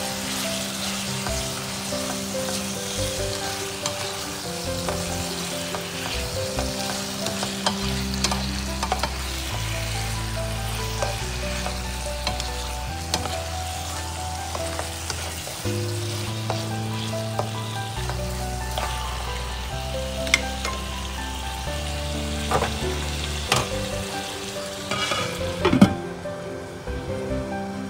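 Beef sizzling as it fries in soy sauce in a pan, with a spatula stirring and scraping and scattered clicks. Near the end a glass lid is set on the pan with a sharp clack, and the sizzle becomes muffled.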